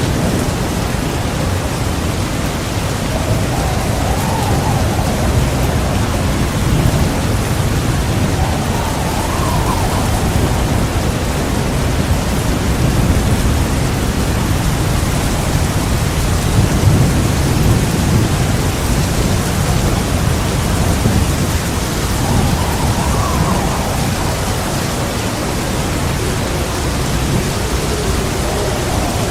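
Heavy, steady rain with thunder rolling low and long several times. Now and then a gust of wind whistles, rising and falling in pitch.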